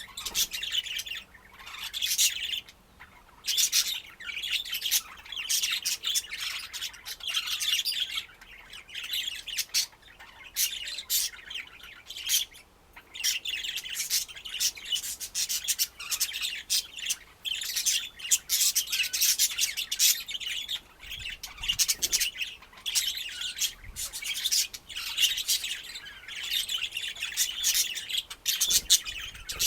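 Budgerigars chattering: a dense, busy run of high chirps and squawks with a few brief pauses.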